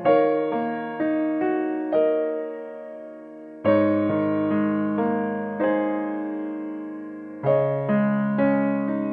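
Slow piano music: notes and chords struck about every half second, each dying away, with a stronger new phrase starting about every four seconds.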